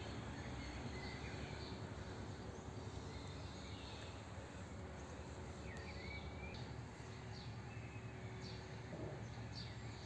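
Birds singing faintly: short whistled phrases and chirps come and go throughout, over a steady low background noise.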